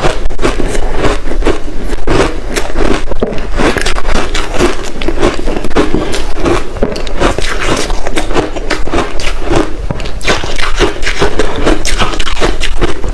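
Chunks of ice, dusted with matcha powder, being bitten and chewed close to the microphone: a dense, continuous run of sharp cracks and crunches.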